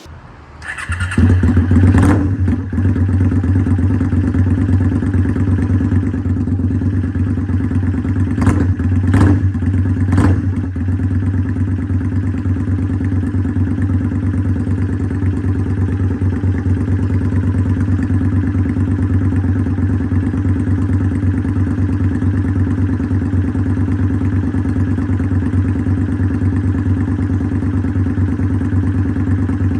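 Kawasaki Eliminator 250V's V-twin engine idling steadily through an aftermarket Squash muffler, with a deep, even exhaust note that comes in about a second in. Three brief sharp knocks sound over it a little past a quarter of the way through.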